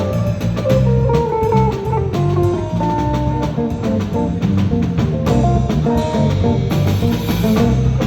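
Live band playing an instrumental passage, with guitar over bass and a drum kit keeping a steady beat.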